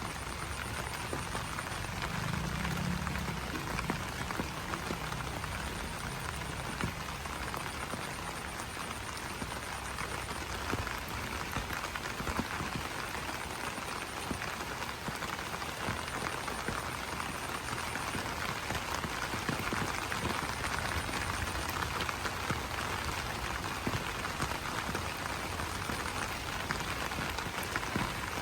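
Steady rain pattering on broad banana leaves, a dense spread of small drop taps. A low frog call sounds about two seconds in, and frogs are heard calling under the rain.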